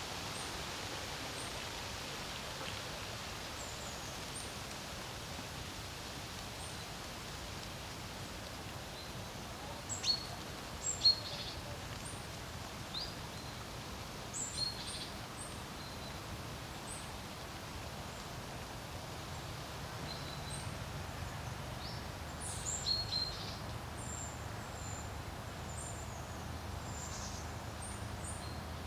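Steady wind noise over a lake, with small birds giving short, high chirps now and then, a few sharper calls about ten seconds in and another cluster a little after twenty seconds.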